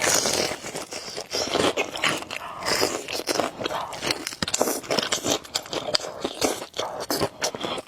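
Close-miked mukbang eating of noodles: chewing and biting, a continuous run of quick, irregular mouth clicks and crunches.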